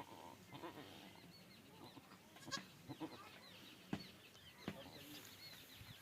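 Goat bleating softly, calling for its newborn kid, with many short high chirps throughout and a few sharp clicks around the middle.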